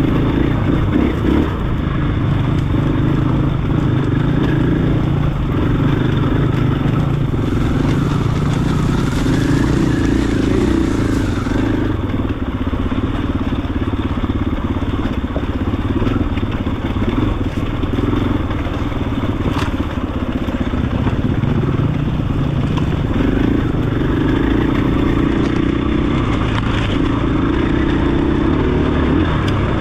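KTM 500 EXC-F single-cylinder four-stroke dirt bike engine running under way, its pitch rising and falling as the throttle is worked.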